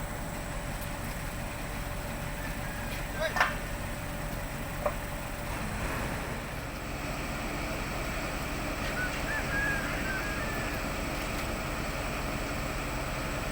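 Heavy diesel engine running steadily, with a sharp knock a few seconds in and another about a second and a half later.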